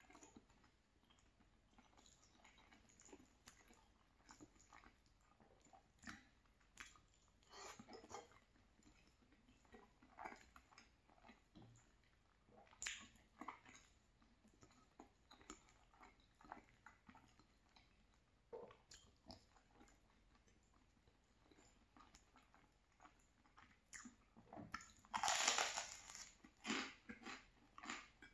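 Close-miked eating sounds: faint wet chewing and lip smacks of cavatappi pasta in a creamy tomato sauce, with soft scattered clicks. One louder, longer crunch comes near the end.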